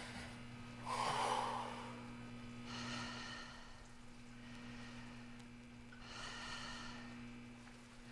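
A person breathing heavily: three slow, audible breaths, the first and loudest about a second in. A steady low electrical hum runs underneath.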